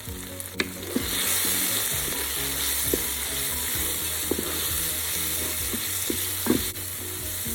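Masala of onions, tomatoes and ground spices sizzling in hot oil in the Ninja Foodi's pot on high sauté while being stirred, with a few sharp clicks from the spoon against the pot. The sizzle grows louder about a second in.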